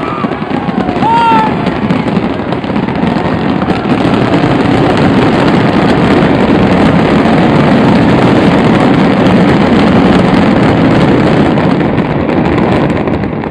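Fireworks display going off in a dense, continuous barrage of booms and crackling, with a couple of short whistles about a second in.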